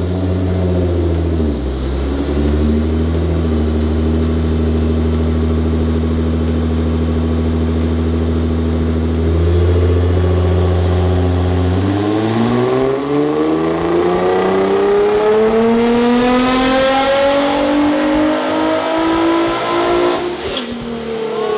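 Nissan R35 GT-R's twin-turbo 3.8-litre V6, with 3-inch downpipes and a titanium exhaust, running on a chassis dyno during a power pull. It holds a steady engine speed for about twelve seconds, then the revs climb steadily under full load for about eight seconds, and near the end the sound cuts off sharply as the pull ends.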